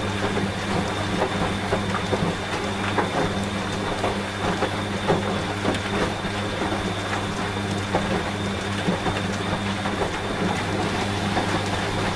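Rain pattering steadily, over the low, even hum of a running washing machine.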